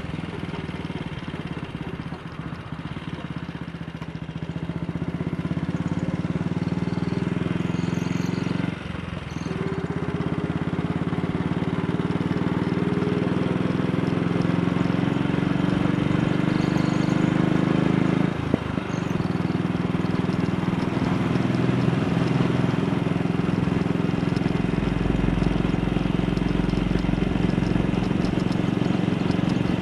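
AJS Model 8 single-cylinder motorcycle engine running under way and pulling up through the gears. The pitch rises steadily, then drops sharply at a gear change about 9 seconds in and again at about 18 seconds.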